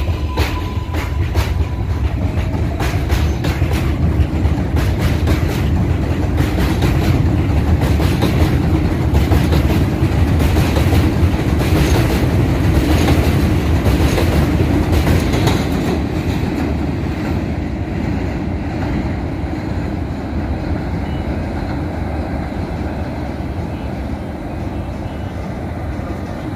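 R188 subway train on the 7 line running past, its wheels clicking rapidly over rail joints under a steady rumble. It is loudest near the middle and slowly fades over the last ten seconds as it draws away.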